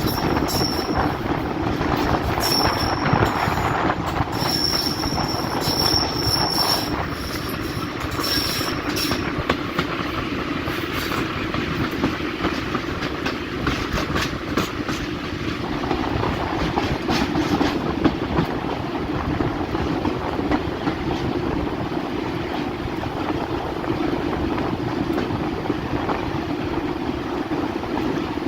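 Heritage diesel-hauled train running on the line, its engine a steady drone under clicking rail joints. Short, high wheel squeals come again and again through the first nine seconds or so, then stop.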